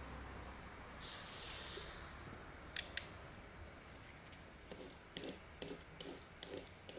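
Small clicks and taps of a plastic car key fob being handled as its coin-cell battery is swapped. A brief rustle comes first, then two sharp clicks a moment apart about three seconds in, then a run of lighter taps.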